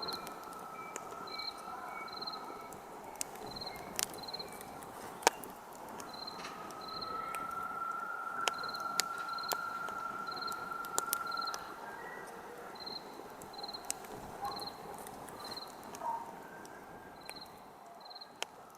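Campfire crackling with scattered sharp pops, the loudest about five seconds in, over a soft steady hiss. A cricket chirps in regular pairs throughout, and a thin steady whistle fades out and comes back.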